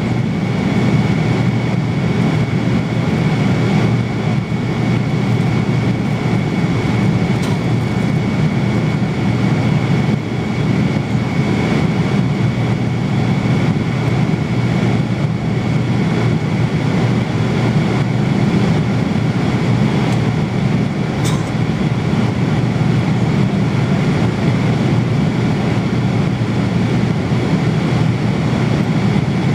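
Steady cabin noise of an airliner in flight: an even, unbroken rush of engine and airflow noise, weighted toward the low end, with a faint steady whine above it.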